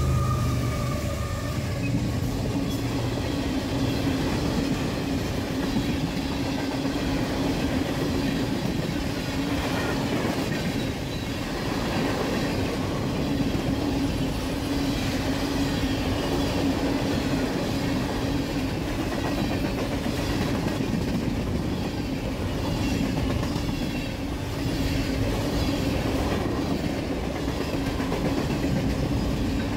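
Freight train of tank cars and boxcars rolling past on the rails: a steady rumble of wheels on track, with rapid clicking of wheels over rail joints and a steady low hum underneath.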